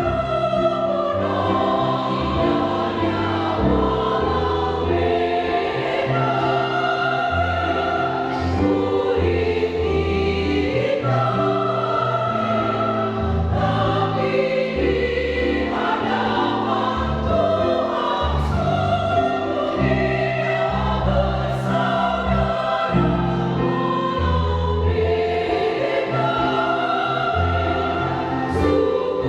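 Church choir singing a song of praise in parts, with long held low notes under the voices.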